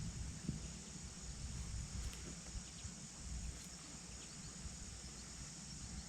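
Steady outdoor background noise: an even hiss with a constant high-pitched band, over a low, uneven rumble, and a few faint clicks.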